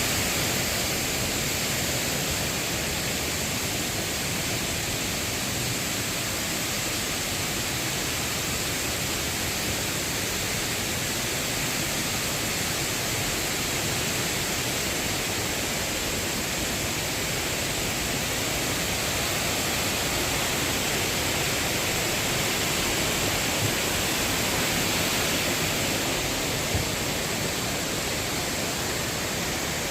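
Mountain stream water rushing over rocks in a steady, even rush, with a single small tap near the end.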